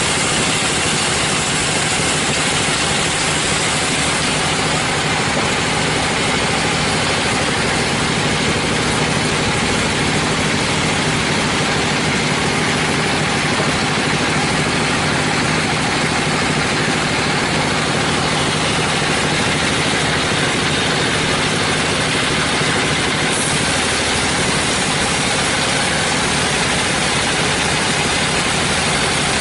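Sawmill machinery running with a steady, unbroken engine-like drone and hiss.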